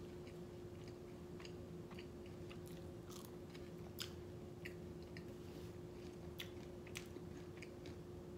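Close-miked eating of blood sausage and fries: scattered soft mouth clicks and smacks of chewing, with a faint steady hum underneath.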